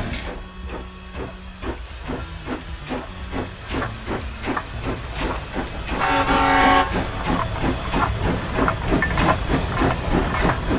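Steam locomotive chuffing in a steady rhythm of about two to three puffs a second, with its whistle blowing for about a second around six seconds in.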